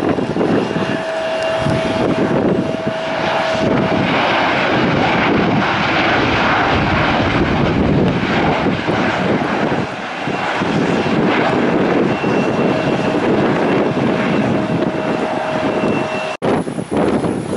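Airplane engines running loud and close, a steady rush of noise with a faint high whine running through it. The sound cuts out abruptly for a moment near the end, then comes back.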